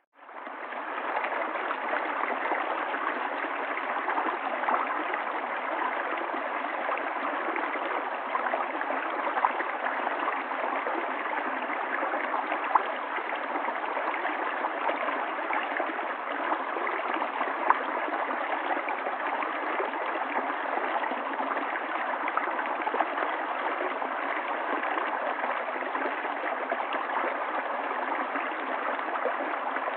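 River water flowing in a steady rush, with a few brief, sharper splashes. The sound drops out right at the start and fades back in within about a second.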